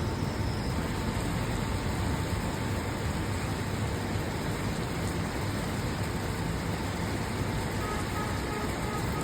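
Steady heavy rain: an even, dense hiss with a deep rumble underneath and no single thunderclap.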